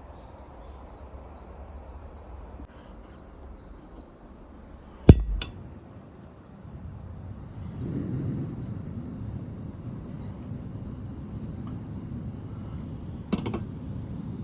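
Forest ambience: a small bird calling over and over in quick short chirps, a single sharp knock about five seconds in and a lighter one near the end, and a low rumble that builds from about seven seconds on.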